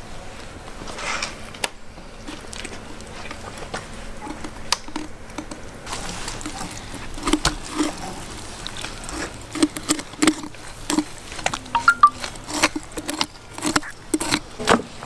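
Knocks of a blade chopping python meat on a cutting board: sparse at first, then a quick, irregular run of sharp knocks through the second half.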